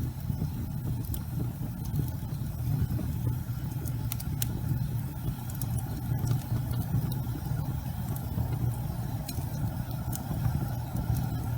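Wood fire burning in a fireplace: scattered sharp crackles and pops, roughly one every second or so, over a steady low rumble.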